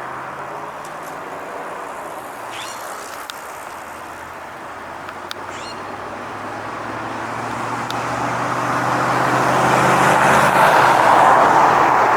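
A car approaching, its engine and tyre noise growing steadily louder over the second half. A few short, high chirps sound faintly in the first half.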